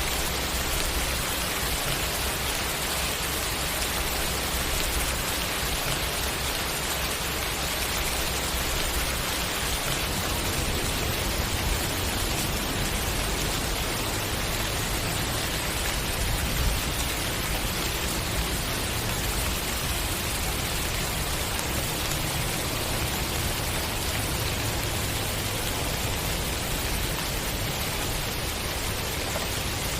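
Steady, continuous rainfall, an even hiss of rain with no breaks.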